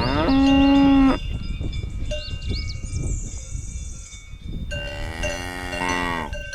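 Cow mooing twice, a short call about half a second in and a longer one near the end, with cowbells ringing.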